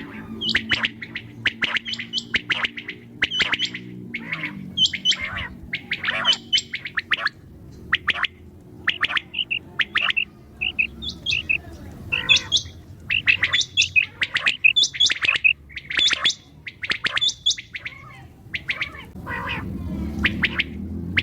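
Quail calling over and over in quick, short, high notes, sometimes in clusters. A low steady hum lies underneath at the start and comes back near the end.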